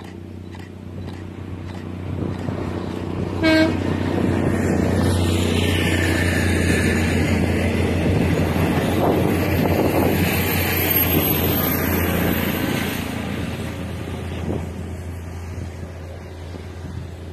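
A short horn toot, then the Minangkabau airport trainset running past close by on the rails, swelling to a peak and fading as it moves away.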